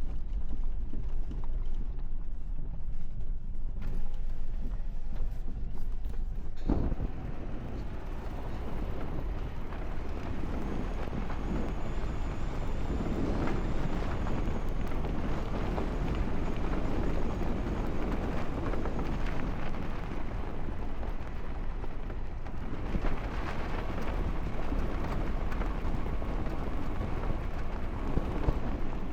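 Lexus SUV driving up a slippery snow-covered trail under throttle: a steady low engine and drivetrain rumble, with a sharp knock about seven seconds in, after which tyre and snow noise grows louder and stays up.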